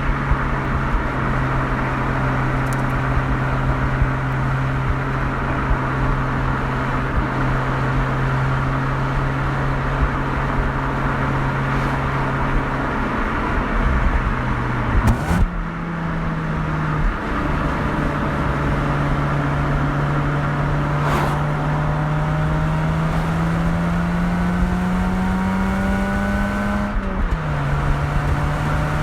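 Mazda RX-8's two-rotor rotary engine and exhaust running under way at steady revs, with a gear change about halfway; later the revs climb slowly and then drop sharply near the end.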